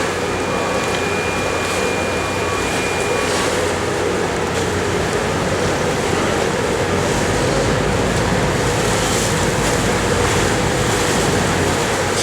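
Fast Cat catamaran ferry's engines running with a steady hum while it comes in to dock, mixed with the rush of water and wind.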